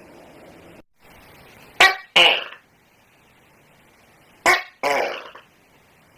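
Tokay gecko giving its two-part "to-kek" call twice, about two and a half seconds apart, each a short first note followed by a longer second one.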